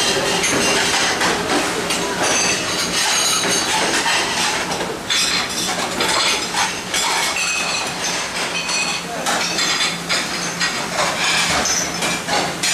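Busy clattering and clinking of metal and crockery over a steady machine hum, with voices in the background.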